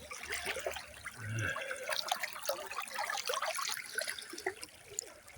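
Shallow river water trickling and splashing, with many small irregular splashes from movement in the water.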